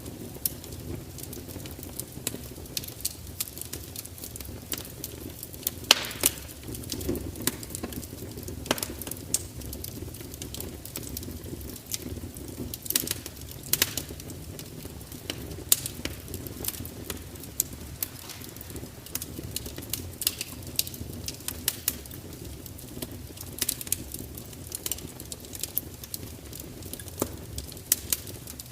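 Wood fire crackling: irregular sharp pops and snaps over a steady low rumble of burning, with one louder pop about six seconds in.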